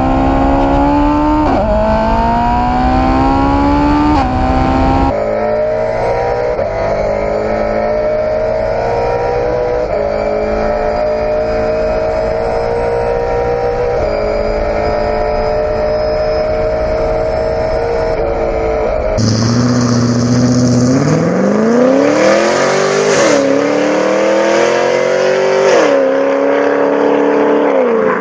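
Car engines accelerating hard through the gears in three short clips one after another: the engine note climbs and then drops back at each upshift, with a long stretch of high, slowly rising engine note in the middle.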